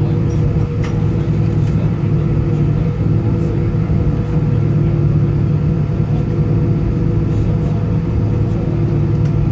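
Steady drone of an Airbus A320-214's CFM56 engines heard from inside the passenger cabin, a constant low rumble with several steady humming tones.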